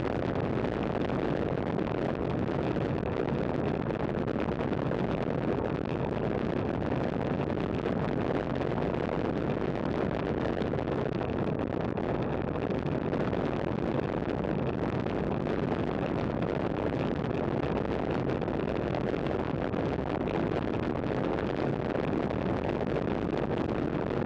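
Steady rush of wind on the microphone with road noise from a bicycle ridden at speed.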